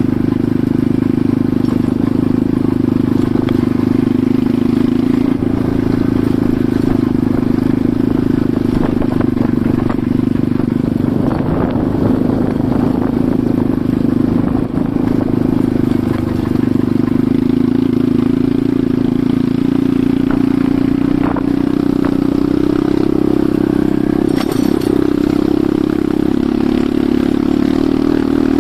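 Enduro motorcycle engine running steadily under way, its pitch holding nearly constant, with a few short rattles and knocks along the way.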